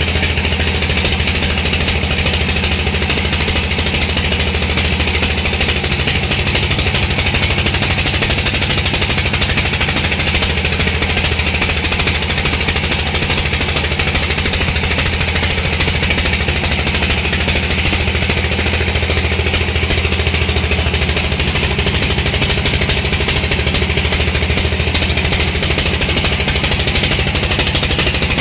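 Sawmill machinery running steadily: a continuous mechanical drone with a low hum and a rapid, fine chatter.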